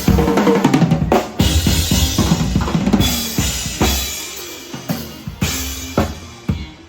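Live band's drum kit playing a fill: a quick run of snare and bass drum hits, then a cymbal crash about a second and a half in that rings and slowly fades, with a few scattered hits near the end.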